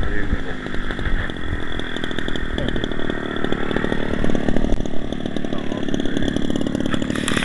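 Small two-stroke gasoline engine of a giant RC model airplane, a converted 30cc Homelite string-trimmer engine, running continuously, its pitch rising and falling.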